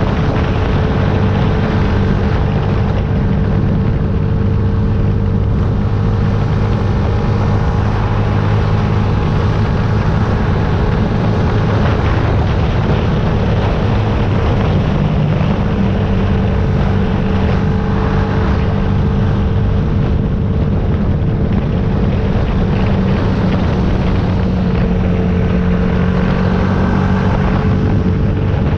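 Yamaha YZF-R125's single-cylinder four-stroke engine running at a steady pace while being ridden, its pitch drifting only slightly, with wind rushing over the microphone.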